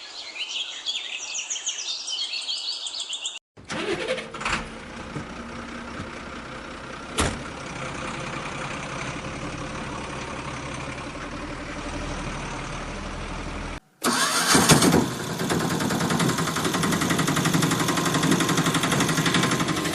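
Birds chirping, then after a cut a vehicle engine starting and running with a couple of sharp clicks. After a second cut, a louder engine running with a rapid rattle.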